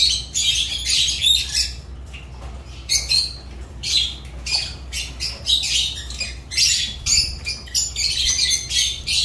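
Lovebirds calling: a continuous run of harsh, shrill chatter in short bursts, one after another.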